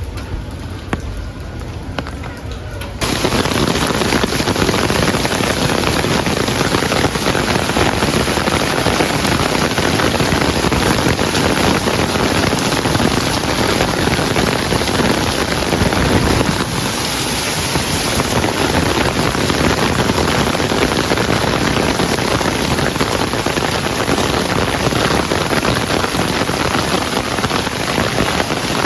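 Heavy rain: a steady, dense hiss that cuts in abruptly about three seconds in, after a quieter stretch.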